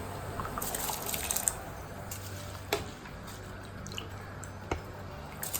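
Rice being tipped into a pot of boiling water, with watery splashing and dripping and a few light clicks over a steady low hum.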